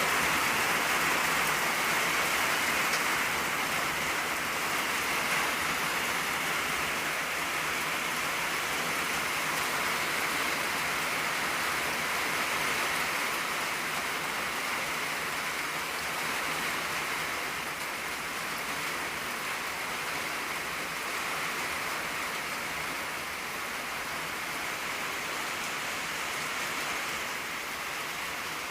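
Steady rain drumming on an old tin roof, a dense even patter with no distinct drops standing out, easing very slightly over the span.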